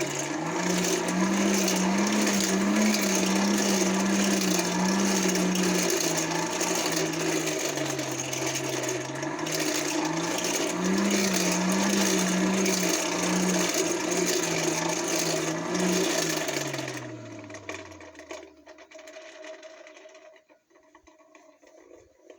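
Forge blower spinning up, whirring at an uneven speed with a wavering pitch that dips in the middle, then winding down about two-thirds of the way through. It is speeding the drying of beeswax on the hot forged piece.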